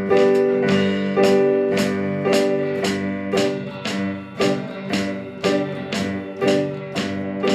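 Young rock band playing an instrumental intro: sustained guitar and piano chords over a steady beat of about two drum hits a second.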